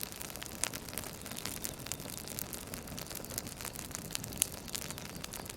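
Campfire crackling: irregular small pops and snaps over a soft steady hiss, with one sharper pop about four and a half seconds in.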